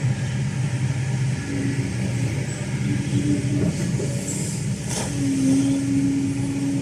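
Kobelco SK210LC hydraulic excavator at work, its Hino J05E diesel engine and hydraulics running with a steady hum. A single sharp metallic knock comes about five seconds in.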